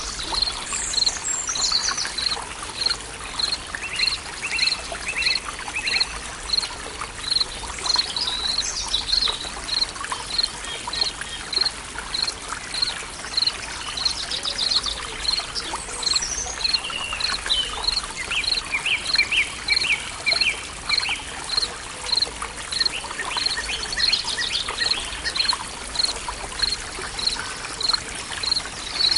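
Forest ambience: birds singing and calling over a steady trickle of flowing water, with an even, high chirp repeating about twice a second.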